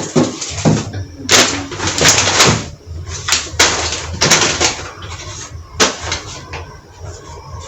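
Plastic shopping bags and grocery packaging rustling and crinkling in irregular bursts as items are pulled out and handled, with a sharper knock a little before the end.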